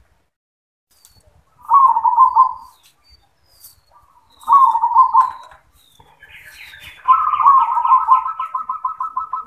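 Zebra dove (perkutut) cooing: two short rolling coo phrases, then a longer run of rapid staccato coos starting about two-thirds of the way in.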